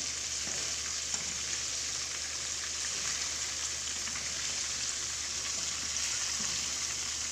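Coated chicken pieces frying in hot ghee over a low flame: a steady sizzle with small crackles and pops throughout.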